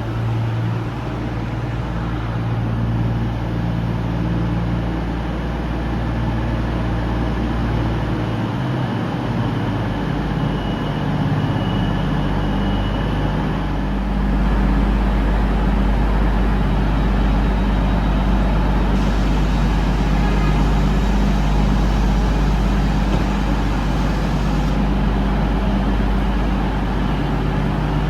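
A train's engine running with a steady low hum whose pitch steps up and down, getting a little louder about halfway through.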